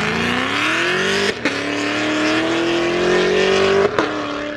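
Chevrolet Camaro accelerating hard away, its engine revving up and shifting up twice: a short break about a second and a half in and again near the end, the pitch dropping and climbing again after each shift.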